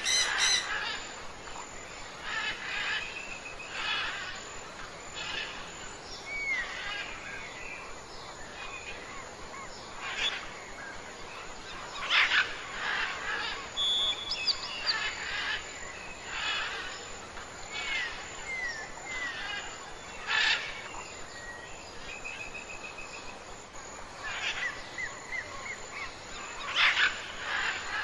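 Birds calling and chirping: a string of short calls and whistles every second or two, with a few louder bursts.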